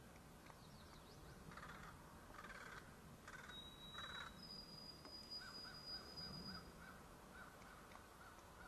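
Faint bird calls in woodland: four short, harsh caws in the first half, then a long, thin, high whistled note, and a quick, even chirping of about two or three notes a second from the middle on.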